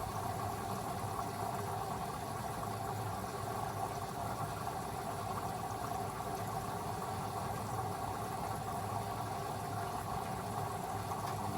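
Beko WA 1050 washing machine pausing between drum turns in its wash cycle: the drum motor's low hum is off, leaving a steady, quieter machine hum, and the motor starts again right at the end.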